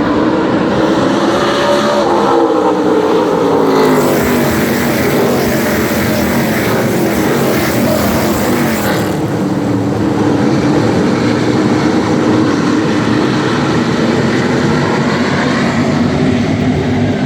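NASCAR Craftsman Truck Series race trucks' V8 engines at racing speed, passing close by, with several engine notes sliding in pitch as trucks go past. A loud rush sweeps by from about four seconds in to about nine seconds in as a group passes nearest.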